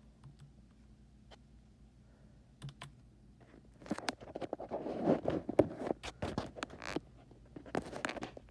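A dense run of rapid clicking and clattering, starting about four seconds in and stopping shortly before the end, after a few isolated clicks.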